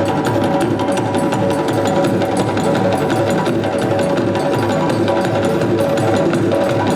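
Live parade percussion music: a drum ensemble playing a fast, dense rhythm, with held pitched tones above it.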